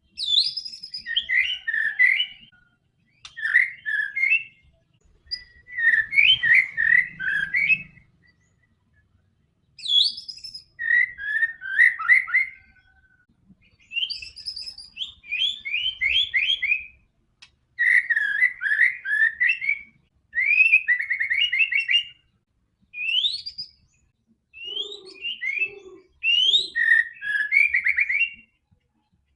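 White-rumped shama (murai batu) in full song: bouts of rapid, varied whistles and trills, one to three seconds long, separated by short pauses, with a longer pause about a third of the way through.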